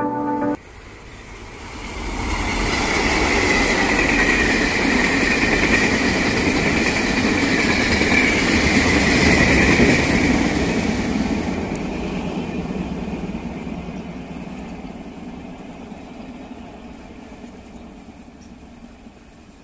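Taiwan Railway Chu-Kuang Express passenger train, electric-locomotive hauled, rolling over a concrete railway bridge: a rumble and wheel clatter that builds, with a steady high whine over it, then fades away slowly as the train recedes.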